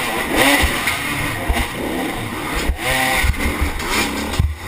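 Motorcycle engine revving hard in repeated rising bursts, the pitch climbing and dropping off several times, over a rushing hiss.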